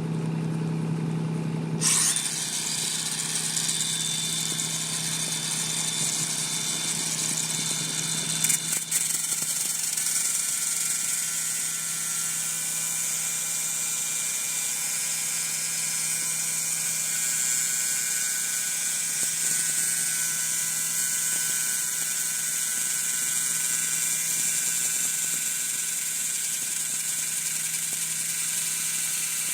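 Electric hub motor of a Onewheel board whining steadily, several high steady tones over a constant hiss; the hiss comes in about two seconds in and a low hum drops out about nine seconds in.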